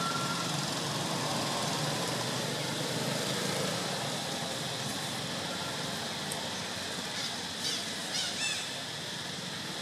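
Steady outdoor background noise, with a quick series of short, high chirping animal calls about eight seconds in.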